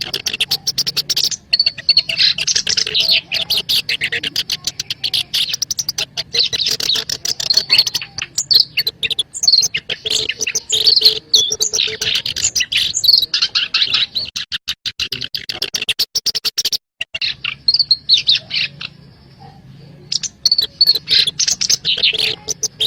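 Black-browed reed warbler (kerak basi alis hitam) singing a fast, harsh, chattering song of rapid repeated notes, played as a lure call for trapping the species. The song lulls for a few seconds near the end, then resumes.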